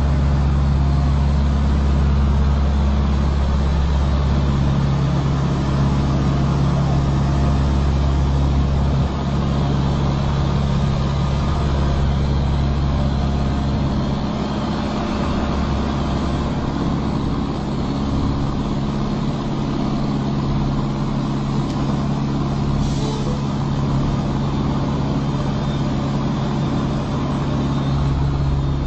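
Truck engine running steadily with a low, even hum. A brief hiss comes about three-quarters of the way through.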